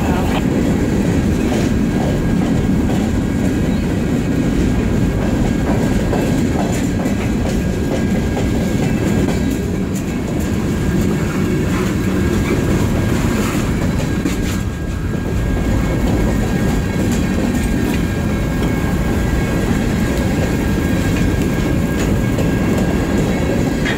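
Freight cars (covered hoppers and tank cars) rolling past close by: a steady heavy rumble of steel wheels on rail with scattered clicking over the rail joints, and a faint thin steady high tone above it.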